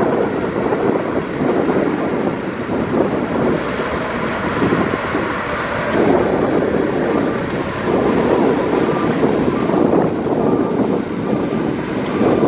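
Heavy diesel earthmoving machinery running steadily under load, with a rough clattering rumble.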